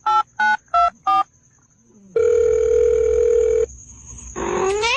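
Telephone keypad dialing tones: a quick run of short two-tone beeps, then a single long steady beep. Near the end a cat's rising meow begins.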